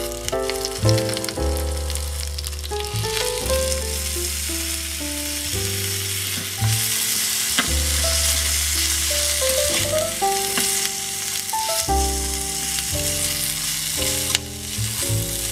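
Chicken pieces with ginger and onion sizzling in oil in a tiny stainless steel pot, stirred with a miniature slotted metal spatula that clicks against the pot. The sizzle grows louder about halfway through and drops back near the end.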